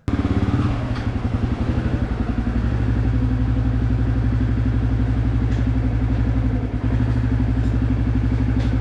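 Dirt bike engine idling steadily with an even pulse. It comes in suddenly and cuts off abruptly near the end.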